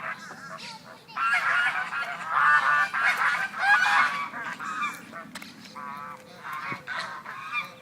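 A flock of waterfowl honking, many calls overlapping in a dense burst for a few seconds, then a few scattered shorter calls.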